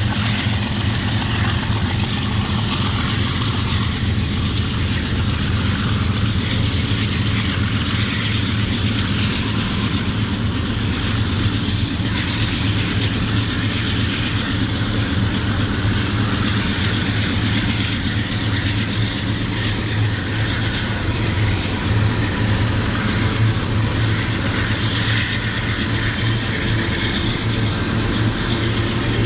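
Freight train cars rolling past on the rails: a steady, unbroken noise of steel wheels on track with some clickety-clack.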